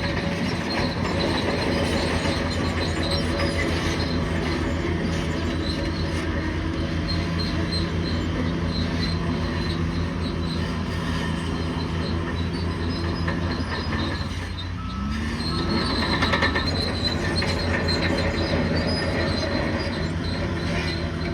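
Bulldozer's diesel engine running steadily while its steel crawler tracks squeal and clatter. About two-thirds of the way through the engine drops briefly, then picks up again with a rising pitch.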